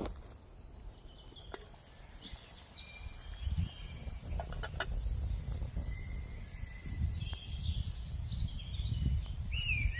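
Small songbirds chirping and trilling over a low, uneven rumble, with a few sharp clicks.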